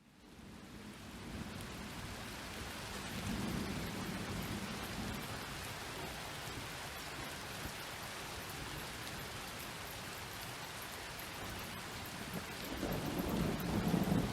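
Steady rain hiss during a thunderstorm, fading up from a brief silent gap at the start. A low roll of thunder rumbles about three seconds in, and a louder rumble of thunder builds near the end.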